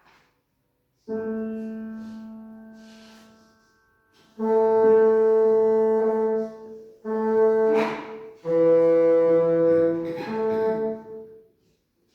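A single piano note sounds about a second in and dies away, then a bassoon plays several long held notes on about the same pitch, dipping to a lower note once before returning.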